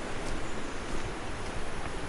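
Steady rushing noise with no distinct events, even across low and high pitches.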